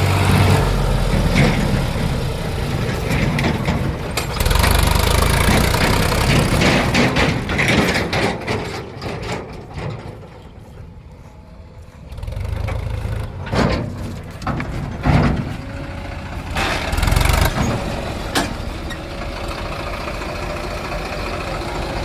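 Heavy diesel machinery engine running and working, its loudness rising and falling, with a quieter spell about ten seconds in and a few sharp knocks soon after.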